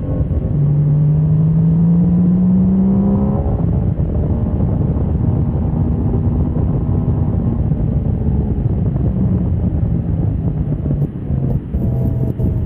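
Motorcycle engine under hard acceleration on a race track: its pitch climbs steadily for about three seconds, then drops away. It then runs on at a steadier pitch, with further dips near the end.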